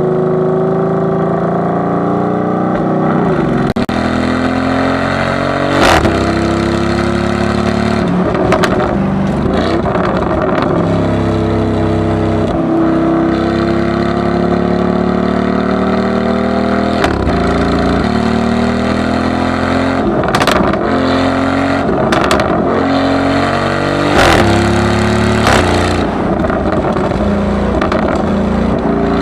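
Lamborghini Urus SE's twin-turbo V8 through an Akrapovič full exhaust, accelerating and easing off repeatedly so the exhaust note rises and falls in pitch. Brief sharp cracks come every few seconds.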